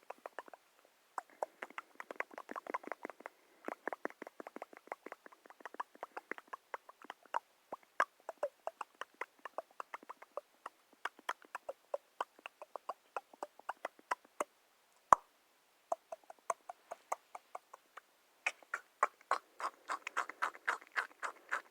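Close-miked ASMR trigger sounds: quick, irregular runs of soft clicks and ticks, broken by short pauses, with one sharper click about halfway through.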